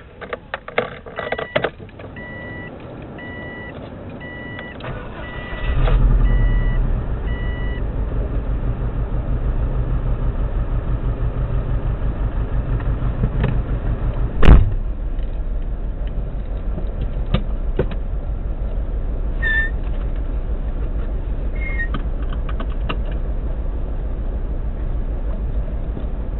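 Clicks, then a repeating electronic chime, then a 2002–03 Subaru WRX's turbocharged EJ205 flat-four starts about six seconds in and settles into a steady pulsing idle with a misfire on cylinder 3, which the owner supposes comes from a cracked valve. One sharp knock partway through.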